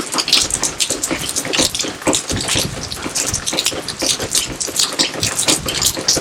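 Rain falling, with water from a garden fountain splashing: a dense, irregular patter of drips and splashes over a steady wash of water.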